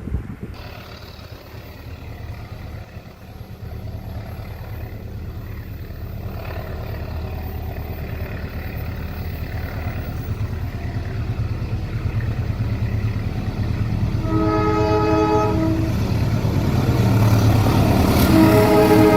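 Train approaching, its low rumble growing steadily louder. The locomotive horn sounds a short blast about three-quarters of the way in, then sounds again near the end.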